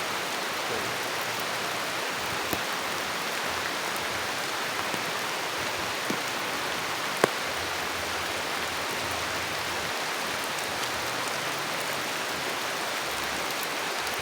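Steady rain falling, an even hiss, with a few single sharp ticks; the sharpest comes about seven seconds in.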